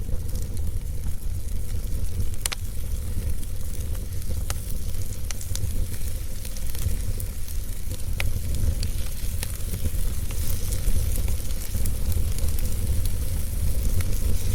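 Wood fire crackling, with irregular sharp pops (the loudest about two and a half seconds in) over a steady hiss and a low rumble.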